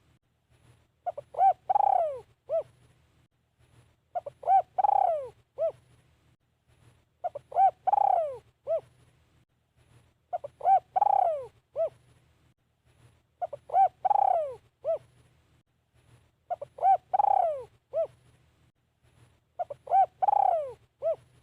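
Spotted dove cooing its song over and over, seven phrases about three seconds apart. Each phrase is a few short coos around one longer coo that falls in pitch.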